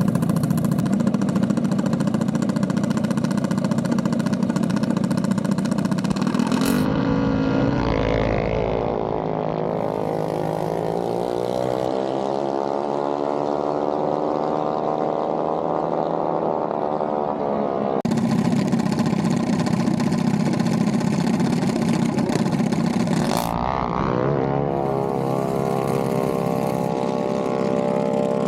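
Mini bike engines running loud and steady, changing abruptly twice, with an engine's pitch climbing gradually over several seconds as it accelerates.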